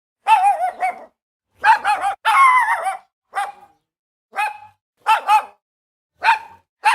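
A dog barking in short, high-pitched barks, singly and in quick twos and threes, with a longer, wavering bark about two and a half seconds in.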